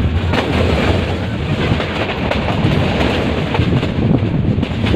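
Metre-gauge passenger train running, a steady rumble with the wheels clicking over rail joints now and then.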